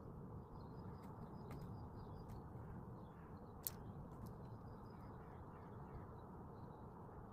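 Faint high chirps of small birds in two short spells, over a steady background hiss, with a few sharp taps or clicks; the loudest tap comes a little past the middle.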